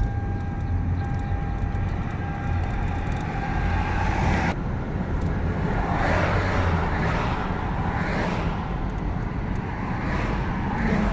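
Car running with steady engine hum and road noise. A thin steady tone over it stops about four and a half seconds in.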